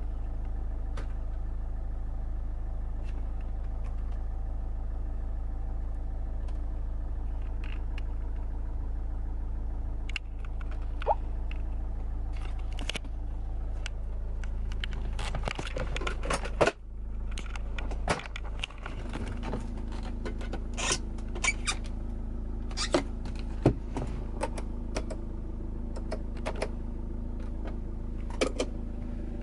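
A car engine idling steadily, with scattered clicks, knocks and rattles of the car's parts being handled, growing busier from about ten seconds in.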